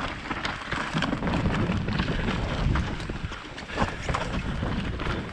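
Wind rushing over the microphone, with the rumble and the rapid rattles and knocks of a mountain bike running down a rough, bumpy trail.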